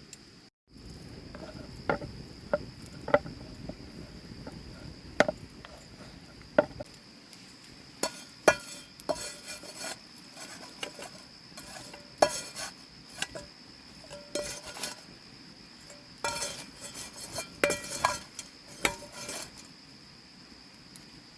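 A metal utensil clinks and scrapes against a cooking pot in a series of sharp knocks, in bunches. A steady high insect drone runs behind it.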